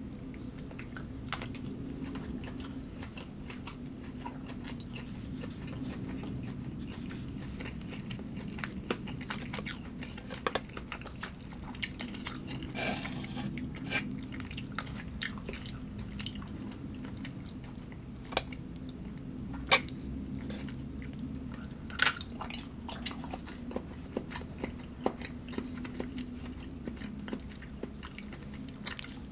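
A person chewing and biting food close to the microphone, with soft crunches and many short, irregular clicks, two of them louder about two-thirds of the way through. A steady low hum runs underneath.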